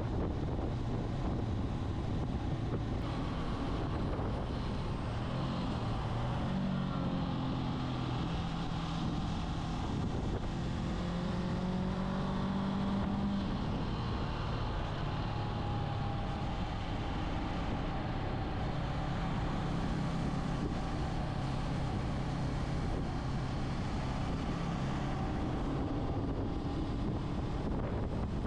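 Motorcycle engine running at road speed, with wind rushing over the microphone; the engine note rises and falls in pitch now and then.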